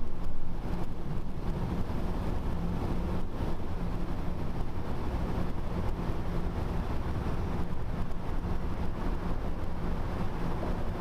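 Wind rushing over the microphone of a camera mounted on a moving bicycle, a steady low rumble with a faint hum underneath, a little louder in the first second.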